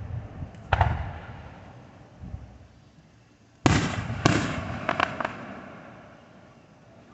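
Fireworks going off: one bang about a second in, then two sharp loud bangs about half a second apart near the middle. A few smaller crackling pops follow, and each fades with a long echoing tail.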